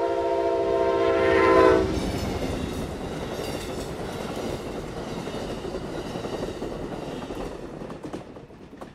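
Amtrak passenger train's locomotive air horn sounding one long chord of about two seconds. Then comes the rumble and wheel clatter of the train going by, slowly easing off toward the end.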